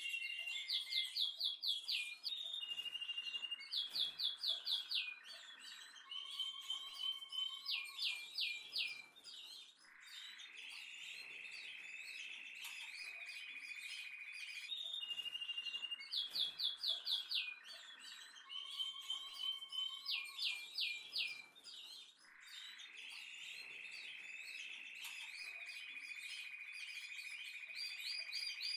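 Birdsong: phrases of quick repeated chirps alternating with long, steady whistled trills, recurring over and over.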